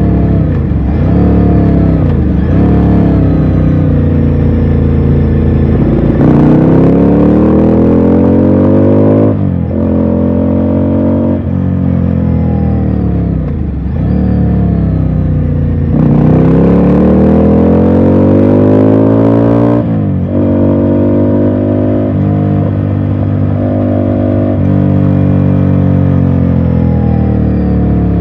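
Ducati Scrambler Sixty2's 399 cc air-cooled L-twin running under way, twice pulling up through the revs in long rising sweeps, with sharp drops in pitch at gear changes or throttle closes in between. Near the end it holds a steady cruising note.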